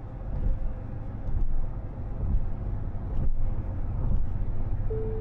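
Steady low rumble of a car driving on the road: tyre and engine noise, with a short steady tone near the end.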